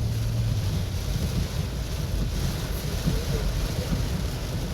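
Car driving through floodwater in heavy rain, heard from inside the cabin: a steady rushing wash of rain and water under the car over a low rumble. A low engine hum fades out about a second in.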